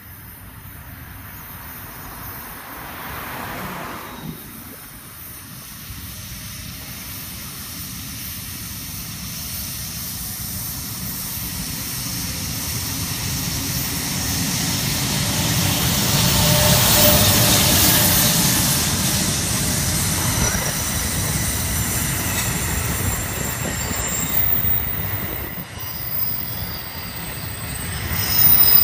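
New Jersey Transit commuter train, an electric locomotive hauling Bombardier MultiLevel double-deck coaches, approaching and passing close by. The rumble of wheels on rail grows steadily louder, peaks a little past halfway as the locomotive goes by, and the coaches keep rolling past to the end.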